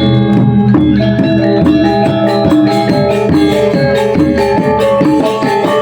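Balinese gong kebyar gamelan playing a tabuh alus: many bronze metallophone strikes ringing on in quick interlocking figures over sustained low tones.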